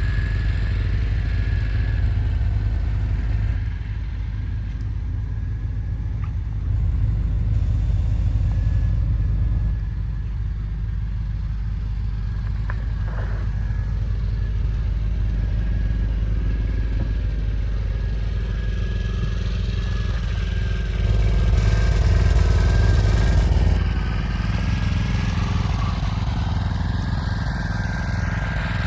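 An engine running steadily with a low rumble, its level stepping up and down a few times.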